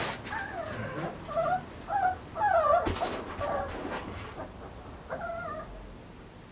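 American Bully puppies whimpering: a string of short, high, wavering cries through the first four seconds and a few more near the end, with a couple of sharp clicks.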